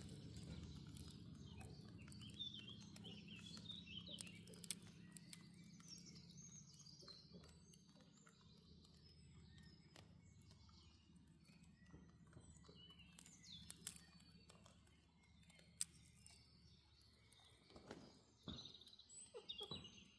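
Faint bird chirps, a short run about two seconds in and again near the end, over a low steady hum and scattered small clicks.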